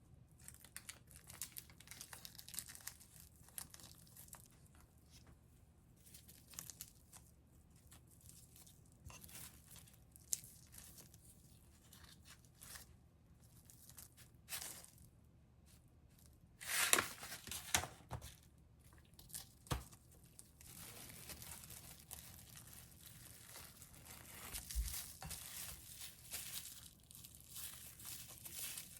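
Kitchen preparation sounds: paper or plastic crinkling and tearing, coming and going, with a few sharp clicks and knocks. A louder burst of rustling and knocking comes a little past the middle, and steady rustling follows toward the end.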